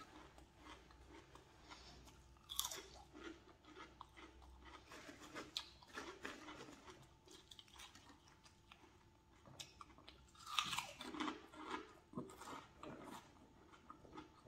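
A person chewing crunchy chips and puffed snacks, quiet crackling bites with louder bouts of crunching a couple of seconds in and again about two-thirds of the way through.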